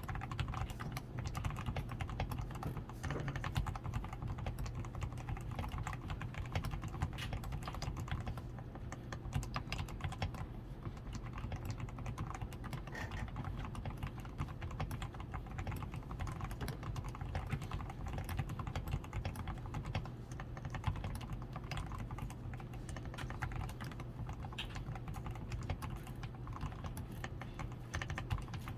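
Continuous typing on a DAREU A87 Pro mechanical keyboard, its switches and stabilizers lubed with Krytox 105, with a tape-modded PCB and XDA keycaps: an unbroken run of quick keystroke clacks.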